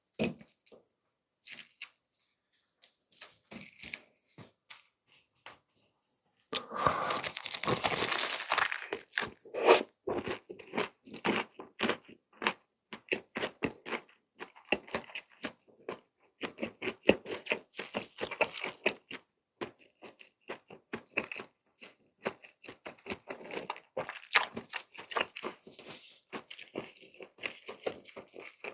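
Close-miked eating of crunchy cheese snacks: crisp bites with a loud run of crunching a few seconds in, then steady chewing.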